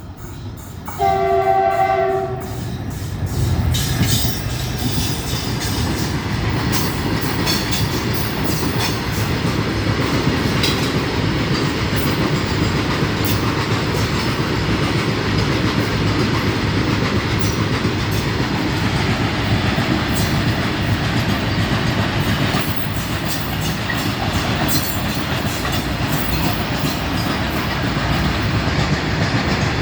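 Horn of an Indian Railways WDP4G diesel-electric locomotive sounding once, for just over a second. Then comes the steady rumble of the train running on the rails, with repeated wheel clicks over the rail joints.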